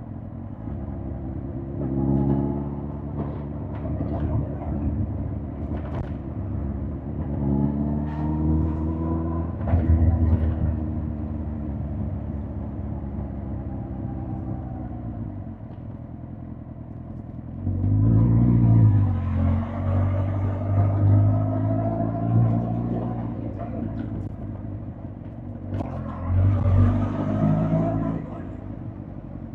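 2005 Suzuki GSX-R1000 K5's inline-four engine on the road, pulling up in pitch under throttle four times (about two seconds in, around eight seconds, around eighteen seconds and near the end), with steadier, lower running and easing off between.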